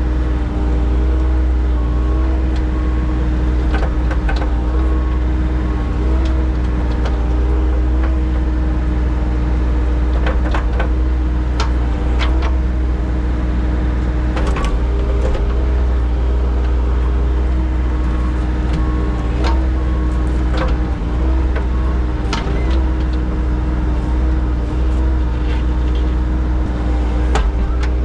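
Engine of a digging machine running steadily with a heavy low hum and a steady drone, with scattered knocks and clanks from the machine at work.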